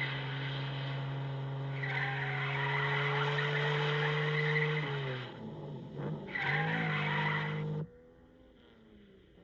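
Aston Martin DB2/4's straight-six engine running hard with tyres squealing through bends. About five seconds in, the engine note dips and climbs back. Near the end the sound cuts off abruptly, leaving a quieter, lower engine.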